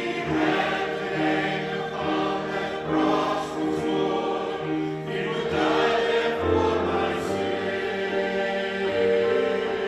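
Church choir singing a slow gospel song in long held chords.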